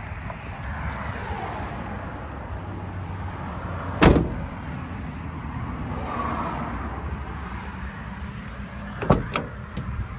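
A vehicle door shut with a slam about four seconds in, then two quick knocks close together near the end, over a steady low rumble.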